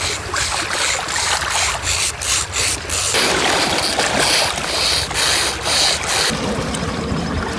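Water splashing and running, with a quick series of splashes in the first few seconds giving way to a steadier rush of water.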